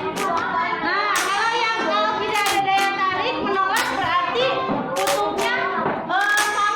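A group of children singing together in a classroom, with hand claps about once a second.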